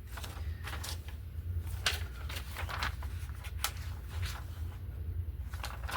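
Hands handling paper and collage materials on a work surface: scattered soft rustles and light taps, over a steady low hum.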